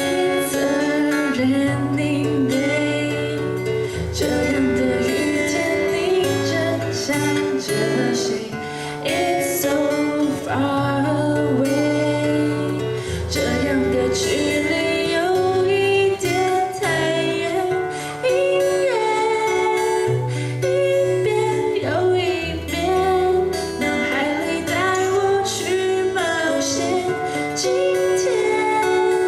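A woman singing a slow song to two plucked guitars.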